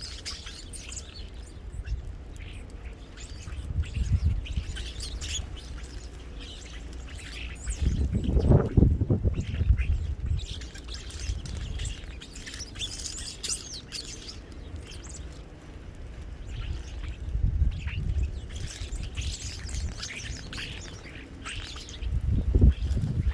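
Small songbirds at a feeder chirping and calling in many short, overlapping notes. A low rumble swells briefly about a third of the way through.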